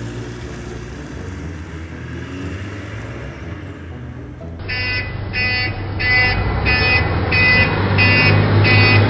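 Garbage truck engine running with a steady low hum, then about halfway through a reversing alarm starts beeping, roughly two beeps a second.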